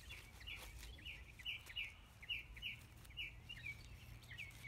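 A songbird singing a quick series of short chirps, about three a second, over a low steady background rumble.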